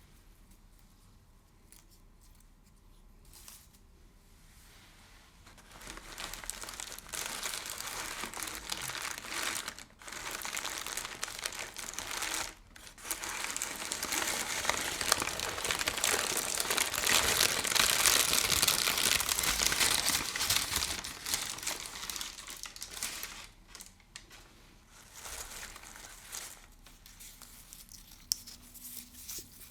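Crinkly material being crumpled and rubbed close to the microphone as an ASMR crinkle trigger. It starts about six seconds in, grows loudest in the middle with two short pauses, and dies away near the end.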